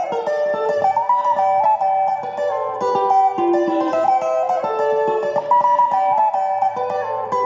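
Guitar playing a fast, picked sebene lead line: a quick run of high notes in a phrase that repeats every few seconds, over a low held bass note.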